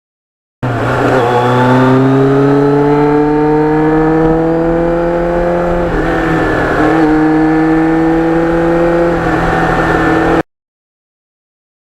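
Kawasaki Ninja motorcycle engine under acceleration, its pitch climbing steadily through the gears, with a shift about six seconds in and another near nine seconds. The sound starts and cuts off abruptly.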